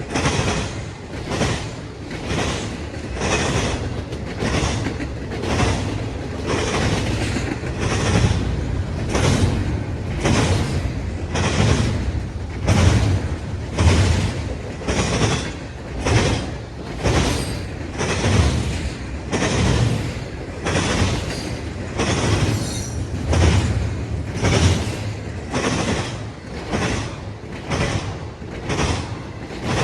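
Train cars rolling past, with the wheels clacking at a steady rhythm of about one knock a second over a continuous rumble.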